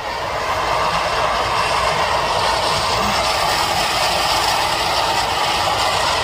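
Air ambulance helicopter close by: a loud, steady rush of rotor and engine noise with a low rumble underneath, which comes in abruptly just before and holds level.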